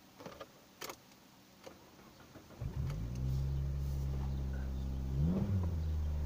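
A few faint clicks, then about two and a half seconds in a car engine starts and settles into a steady idle, with a brief rise in revs near the end.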